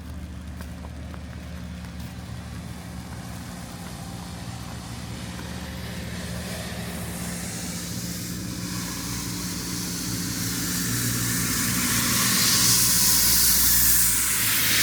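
A motor vehicle approaching on a wet street: a steady low engine hum with tyre hiss that grows steadily louder, loudest near the end.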